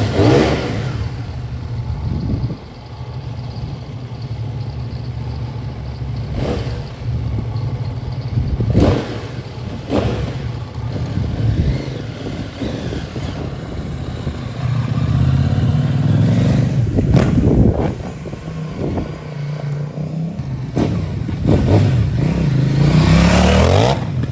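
CFMOTO 800NK's parallel-twin engine running on its first start after assembly, idling steadily with several short throttle blips and a longer rev that rises near the end.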